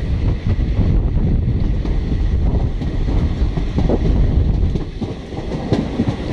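Passenger train running at speed, heard from an open window: the steady rumble of wheels on the rails with wind buffeting the microphone.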